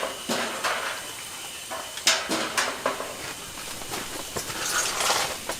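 Cookware and utensils clinking and clattering as food is handled, with a handful of sharp knocks scattered through.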